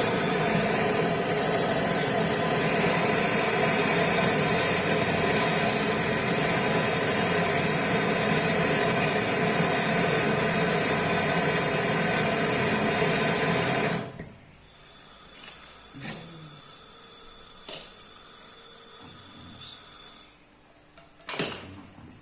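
A machine running steadily with a hiss. About fourteen seconds in it drops suddenly to a quieter hum, which stops about twenty seconds in, followed by a few clicks.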